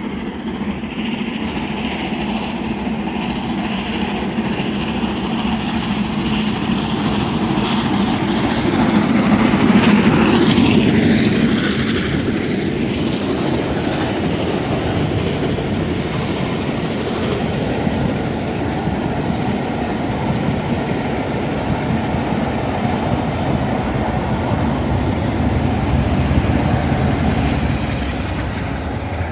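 A steam-hauled railtour train, an LMS Jubilee steam locomotive with a Class 47 diesel on the rear, passing close by on the main line. The sound is loudest about ten seconds in as the train goes past, then carries on steadily as the coaches run by, and eases slightly near the end.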